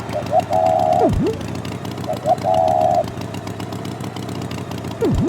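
Cartoon tractor engine chugging steadily. Over it, a pair of short rising chirps and a held tone sound twice, and a fast falling swoop comes about a second in and again near the end.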